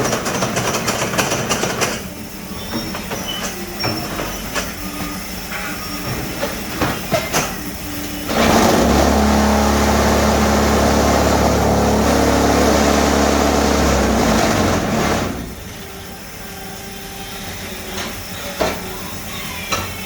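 RH1S12 paving-block machine at work: metal clanks and knocks, then about eight seconds in its vibrator starts a loud, steady low hum for about six seconds, compacting the concrete in the mould, before stopping and leaving lighter clattering.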